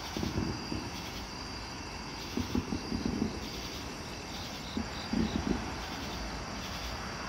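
Night ambience outdoors: insects chirp in a steady, pulsing high band over a constant low rumble from the sky that the uploader cannot explain. Several short gusts of wind thump on the microphone, about half a second, two and a half, and five seconds in.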